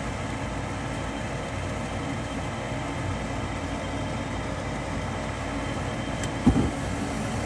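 Gas furnace running after a relight, with the steady whir of its draft inducer fan. A brief thump about six and a half seconds in.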